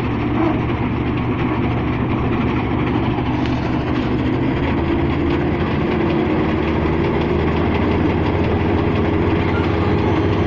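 Kubota DC-35 combine harvester's diesel engine and threshing machinery running steadily.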